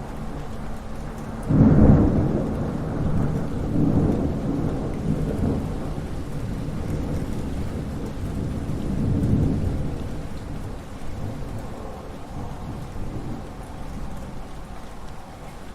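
Thunder during steady rain: a loud clap about a second and a half in, then a deep rumble that rolls on in swells and fades away over the following ten seconds.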